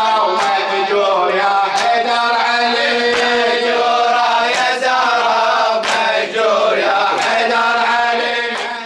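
Men's voices chanting a Shia Muharram lament (latmiyya) in a melodic refrain, with sharp slaps about every second and a half, the congregation's chest-beating keeping time.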